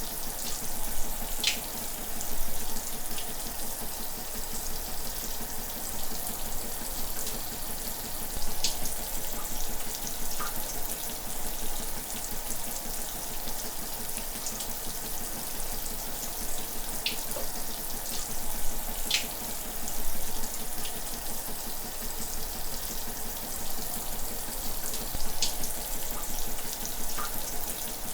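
Shower running steadily, a constant hiss of spraying water with a few brief, sharper splashes scattered through it.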